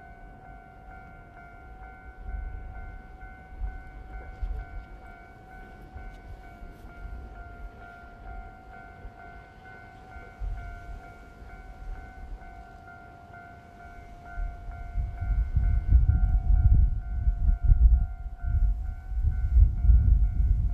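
A steady, pulsing warning tone like a Japanese level-crossing bell rings throughout. From about fifteen seconds in, a low rumble grows louder as the JR Freight EF66 electric locomotive and its train approach.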